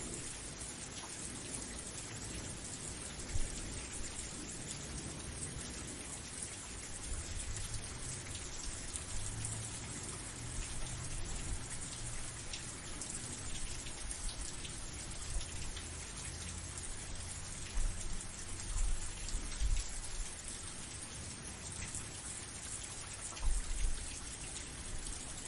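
Steady rain falling, with the patter of many individual drops. A few brief low rumbles rise out of it, about two-thirds of the way through and again near the end.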